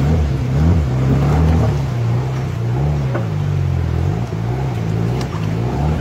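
Off-road 4x4's engine revving up and down again and again, its pitch rising and falling about once a second, working hard under load as the vehicle claws up a steep bank out of a river.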